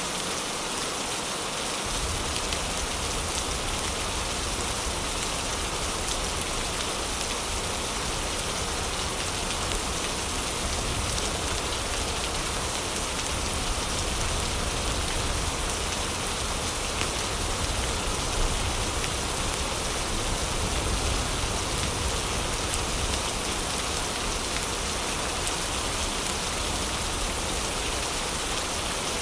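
Heavy rain falling steadily in an even hiss, with a low rumble underneath that comes in about two seconds in.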